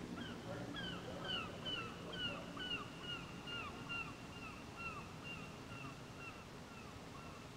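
A bird calling over open water: a long series of short, down-slurred whistled notes, a little over two a second, growing fainter toward the end.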